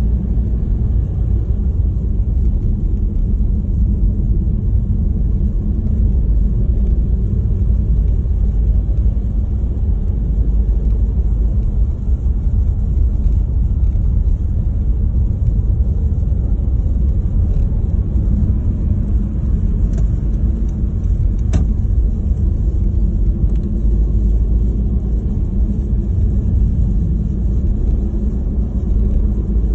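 Steady low rumble, with two short faint clicks about twenty seconds in.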